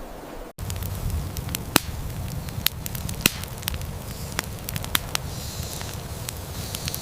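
Campfire crackling, with irregular sharp pops over a low steady rumble, starting abruptly about half a second in.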